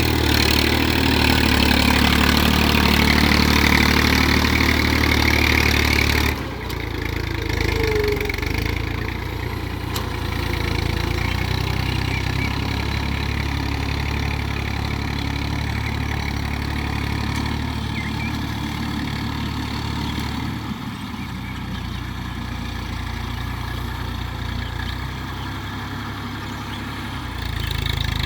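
TAFE 45 DI four-wheel-drive tractor's diesel engine running steadily. It is louder for about the first six seconds, then drops suddenly to a lower, even running, and swells again briefly near the end.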